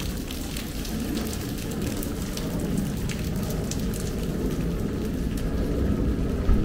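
Heavy rain falling, a steady wash with many sharp drop taps scattered through it. There is a brief low thump near the end.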